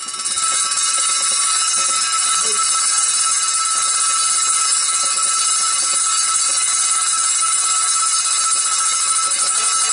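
Small petrol engine driving a belt-driven circular saw bench, running steadily at speed with a high-pitched whine.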